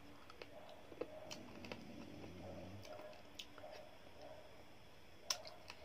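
Faint chewing and lip-smacking as a mouthful of rice is eaten by hand, with scattered soft clicks and one sharper click near the end.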